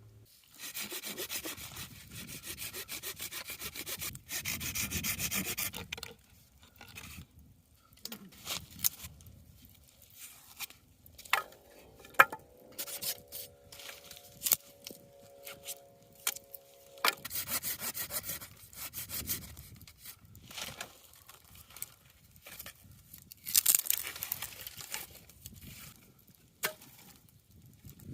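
Rubbing and scraping noises in several bursts a few seconds long, with scattered sharp knocks. A steady hum of a few tones runs for about four seconds in the middle.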